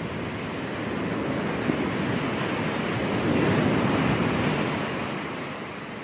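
Ocean surf: waves breaking and washing on a beach, one wave swelling to a peak about halfway through and then easing off.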